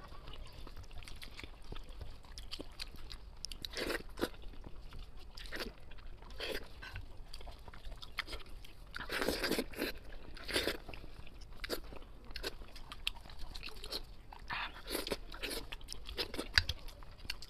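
Close-miked chewing and crunching of braised sheep's head meat, with irregular short crunches and bites, some louder than others, while gloved hands pull the meat off the head.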